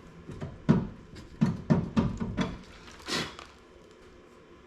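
A string of irregular clicks and knocks of a hand tool and metal parts, as the interior door handle is worked off a car door, ending a little after three seconds in.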